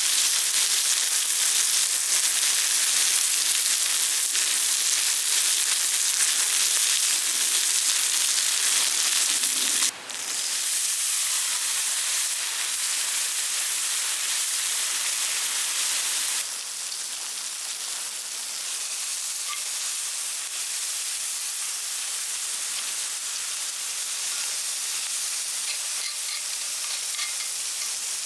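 Food sizzling in a hot frying pan, a steady hiss with faint pops. It breaks off for a moment about ten seconds in and continues somewhat quieter from about sixteen seconds.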